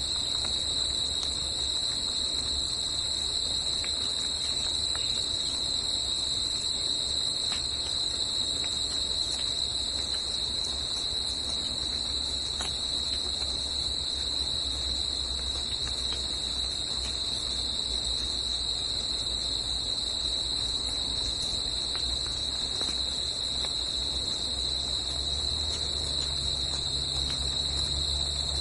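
Forest insect chorus: a continuous, steady high-pitched buzzing trill at one even pitch, over a faint low rumble.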